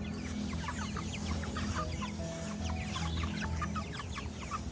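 A flock of young broiler chickens peeping and clucking, many short high falling peeps overlapping, over a steady low hum.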